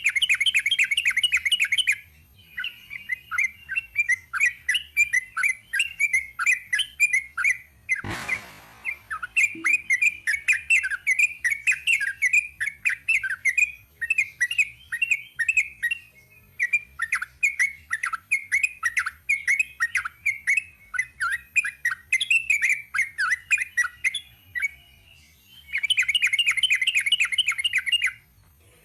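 Yellow-vented bulbul (trucukan) singing a long, unbroken run of rapid chattering notes, with louder, denser bursts at the start and near the end. A brief rushing noise cuts across the song about eight seconds in.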